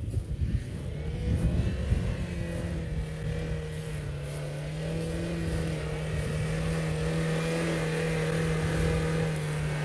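Car engine running, its revs climbing over the first two seconds and then held steady, over a low rumble.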